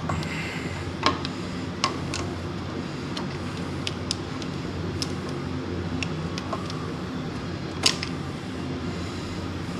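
Scattered sharp metal clicks and taps from hand work on the carburetor, about five of them, the loudest near the end. Under them runs a steady low hum.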